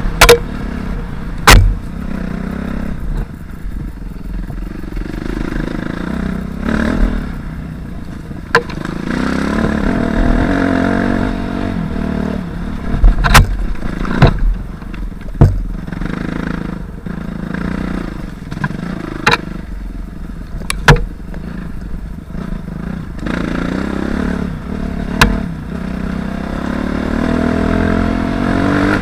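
Suzuki RM-Z250 250 cc single-cylinder four-stroke dirt bike engine running under riding load, its revs rising and falling, with about ten sharp knocks and clatter scattered through.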